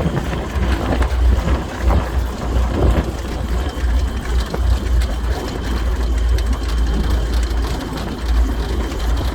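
Diamond T half-track driving, its engine running with a steady low drone and a clatter of irregular knocks from the vehicle over it.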